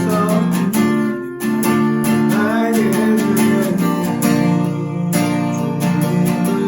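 Strummed acoustic guitar accompanying a worship song, with faint singing.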